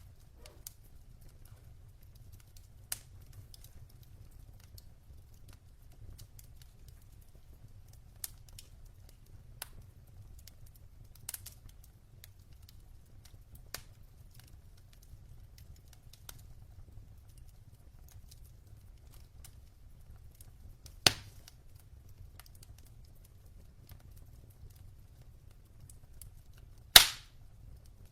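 Wood logs burning in a fireplace: scattered sharp crackles over a steady low rumble, with two loud pops, the louder one near the end.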